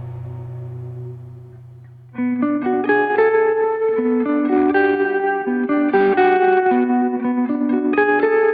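Background music, a calm guitar track: a held chord fades out, then plucked guitar notes come in about two seconds in, in a steady rhythm.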